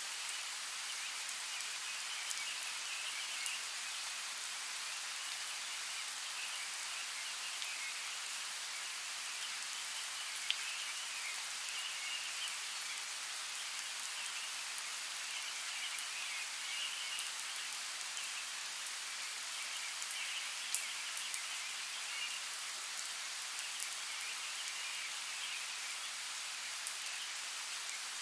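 Steady rain falling, with scattered sharp drop ticks and a high, wavering chorus running underneath.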